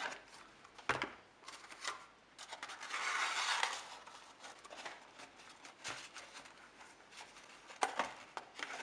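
Paper and a small cardboard box being handled and pressed together while the paper is glued in place: soft rustling and rubbing with a few light taps, and a longer scratchy rub about three seconds in.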